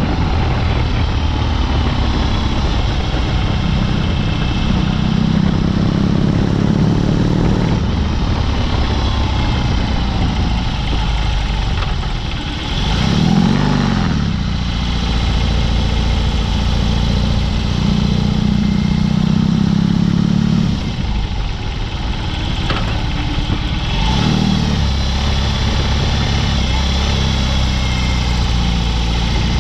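BMW R18's boxer twin running through a Dr. Jekill & Mr. Hyde exhaust under way, its note rising and falling with the throttle. It dips briefly about twelve seconds in, then rises again, and dips once more around twenty-one seconds in.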